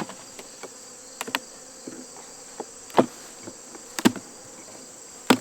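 A steady high insect chirring runs through, over the hum of a busy, opened honeybee hive. Several sharp wooden knocks and clicks from the hive's boxes and frames being worked cut through it, the loudest about three, four and five seconds in.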